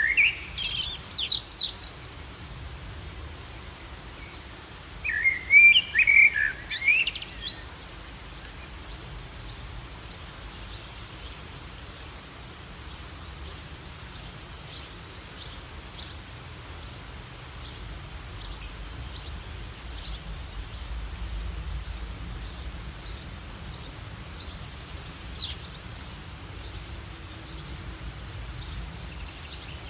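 Bird calls: a quick burst of chirps at the start, a longer phrase of several chirps about five seconds in, and one short chirp near the end, over steady background noise.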